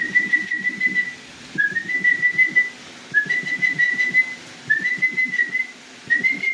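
Five whistled notes at one steady pitch, each sliding up briefly at the start and then held for about a second, repeated about every one and a half seconds. Faint tapping sounds run underneath.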